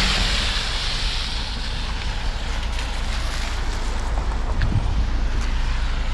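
Wind buffeting the camera's microphone as a steady low rumble, with a rushing hiss that fades in the first second or so.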